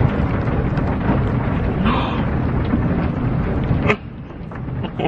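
Automatic car wash heard from inside the car's cabin: water spray and washing equipment beating on the car body in a loud, steady rumble. It drops away suddenly after a sharp knock about four seconds in.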